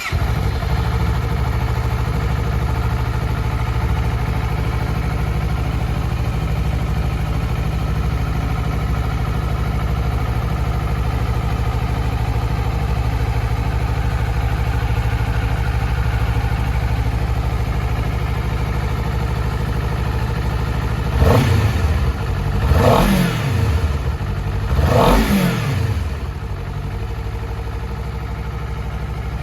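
Honda CBR250RR's parallel-twin engine, just started and idling steadily, then revved three times about two-thirds of the way through, each blip rising and falling back, before it settles to idle again.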